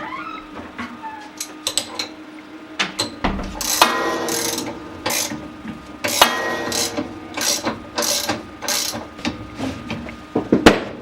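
Washing machine upper agitator being turned by hand, its new toothed plastic ratchet pieces (agitator dogs) clicking and rattling in irregular runs as they catch. There is a sharp loud click near the end.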